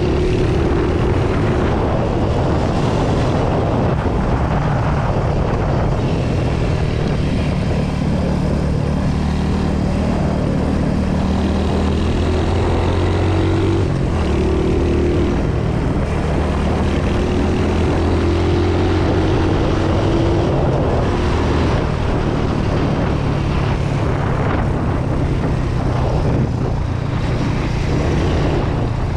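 Royal Enfield Hunter 350's single-cylinder engine running through its stock silencer, the exhaust note rising and falling with the throttle.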